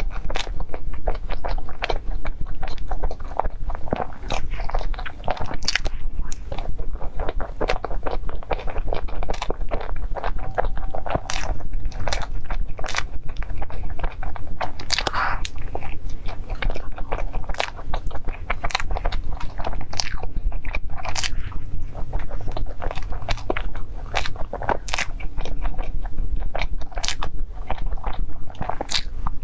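Close-miked chewing and biting of cream puffs: a steady stream of small wet clicks and smacks of the mouth working on the choux pastry and cream filling, picked up by a clip-on microphone at the collar.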